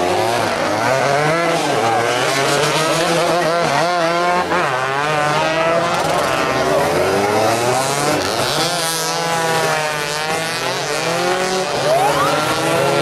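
Several motorcycle engines revving together, their pitches overlapping and rising and falling as the riders open and close the throttle.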